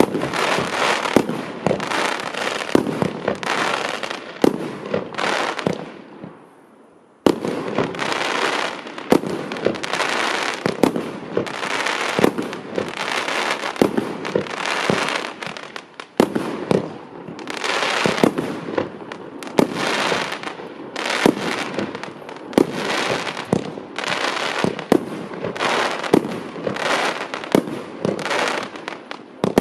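Klasek Clown (CF253K) consumer firework cake firing shot after shot in quick succession, each launch followed by bursting, glittering stars. It dies away briefly about six seconds in, then starts again abruptly and keeps firing.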